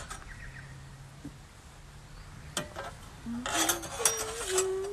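Kitchen utensils and a mixing bowl clinking and clattering as butter and sugar go in: a single clink, then a burst of clatter about three and a half seconds in. Over the clatter near the end, a voice hums a few held notes.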